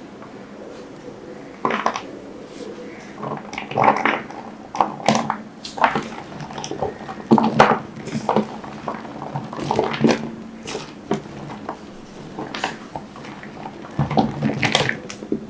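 Glycerin soap being cut, with irregular short cutting strokes, one or two a second.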